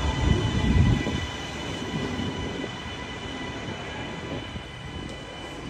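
Train moving at a railway station: a heavy low rumble that drops away about a second in, under a steady high-pitched squeal that carries on throughout.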